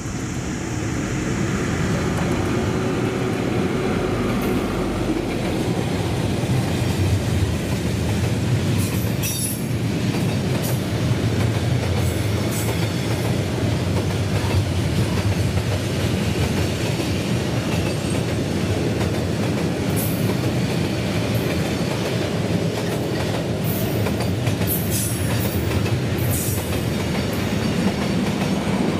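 Diesel-hauled freight train passing close by: the locomotive's engine comes up loud in the first seconds, then a long string of freight wagons rolls past with a steady rumble and wheels clattering over the rail joints, with short high squeals and clanks now and then.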